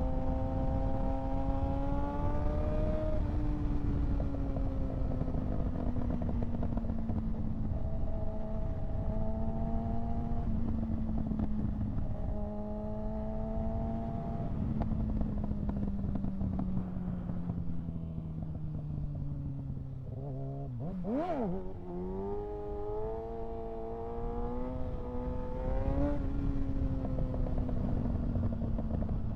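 Kawasaki ZX-6R 636's inline-four engine under way, with wind rushing over the microphone. The engine note sinks slowly while rolling along, then about two-thirds through it revs sharply up and down and pulls hard with a rising pitch for a wheelie attempt, before settling again.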